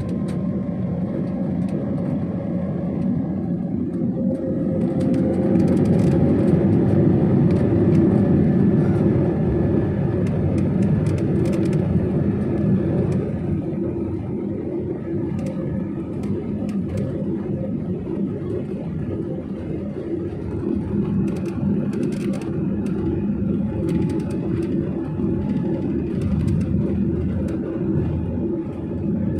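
Jet airliner's engines and rushing air heard from inside the cabin around takeoff: a steady loud rumble that swells a little about six to nine seconds in, with faint scattered clicks and rattles over it.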